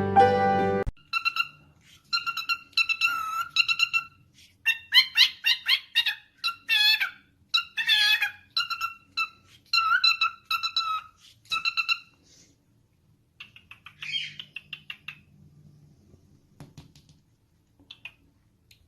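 A parrot calling in quick series of short, high, whistle-like chirps, some on one steady pitch and some wavering up and down, thinning out to a few fainter calls in the last few seconds.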